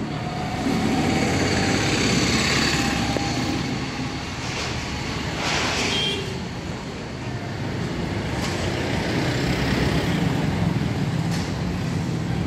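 Bajaj Pulsar 150's single-cylinder engine idling steadily.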